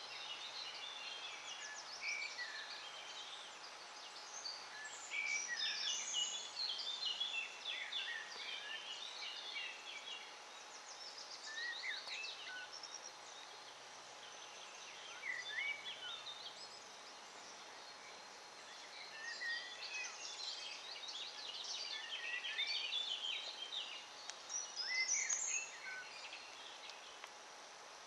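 Several songbirds singing at once, overlapping short chirps, trills and whistled phrases, with busier spells of song now and then.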